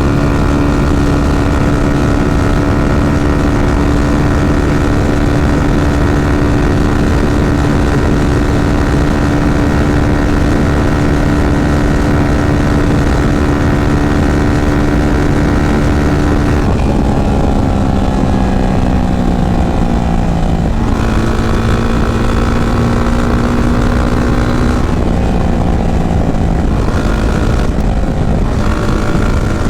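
Yamaha FZ25's single-cylinder engine running at a steady cruising speed over wind and road noise. A little past halfway the engine note falls over a few seconds as the bike slows, then holds at a lower pitch, dipping once more briefly near the end.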